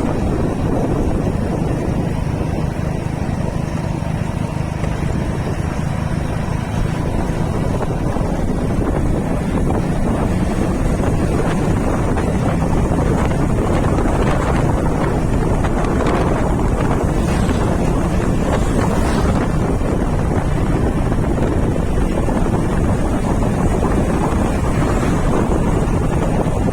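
Wind rushing over the microphone of a moving motorcycle, a loud, steady rumble with the bike's engine running beneath it.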